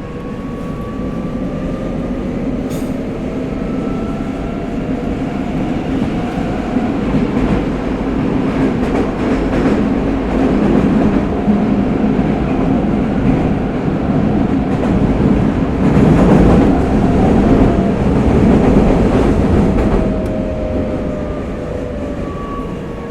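Tokyo Metro 05 series subway car running, heard from inside: the Mitsubishi IGBT VVVF inverter's whine rises in pitch as it accelerates, then wheel and track noise grows louder with speed. Near the end the inverter tones fall in pitch as it slows.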